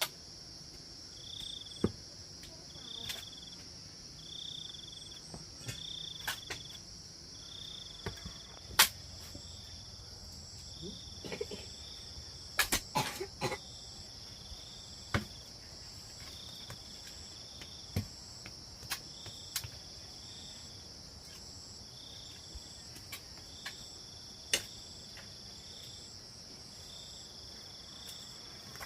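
Insects calling: a steady high-pitched drone with a short chirp repeating about every second and a half. Scattered knocks and clicks sound over it, the sharpest about nine seconds in.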